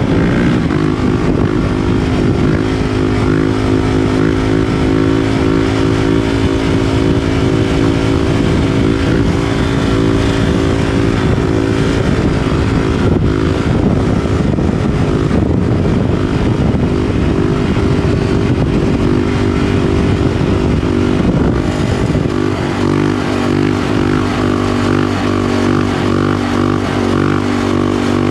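Honda CRF450RL's 450 cc single-cylinder four-stroke engine through an FMF PowerCore 4 exhaust and MegaBomb header, running under way at steady revs; about three quarters of the way through the engine note changes and then holds again.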